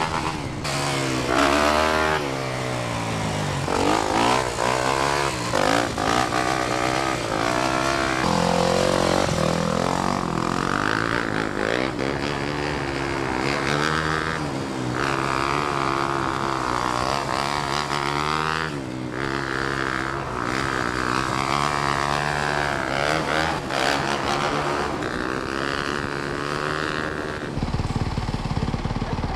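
Dirt bike engines revving up and down over and over, the pitch rising and falling every second or two as the throttle is worked to hold wheelies. Near the end it gives way to a lower, choppy idle.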